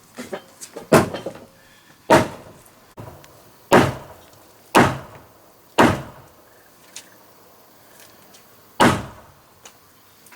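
Heavy blows striking wood: six loud knocks about a second apart, with a longer pause before the last one, and lighter taps between them.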